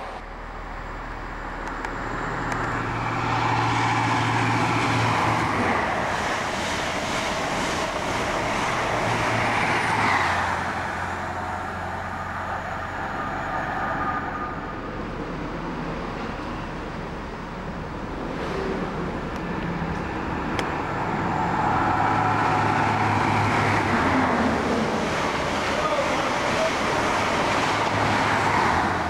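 High Speed Train (InterCity 125) passing at speed: the diesel power cars' engines droning under the rush of wheels on the rails. The sound swells twice and eases off in between.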